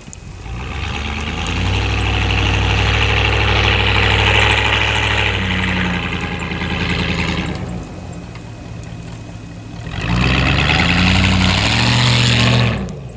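Straight-piped Chevrolet Silverado exhaust revving under throttle as the truck drifts in snow: a long loud burst of about six seconds, a quieter lull, then a second burst with the engine note rising and falling, cut off suddenly near the end.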